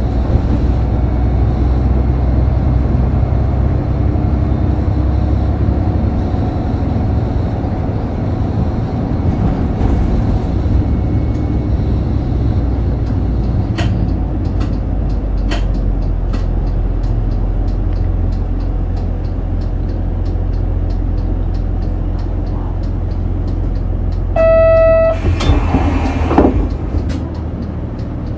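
City route bus heard from inside the cabin: steady engine and road rumble while it runs, with a couple of sharp clicks. Near the end comes a short electronic chime, then a brief loud hissing burst.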